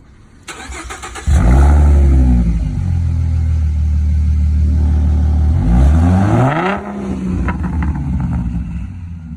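Ford Mustang V6 cranks over for under a second and fires up about a second in, flaring briefly before settling to a steady low idle through its exhaust and muffler. About six seconds in it is revved once, its pitch rising and falling back, and it returns to idle.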